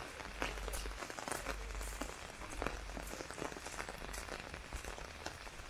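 Heavy rain falling steadily, with many separate drops spattering close by.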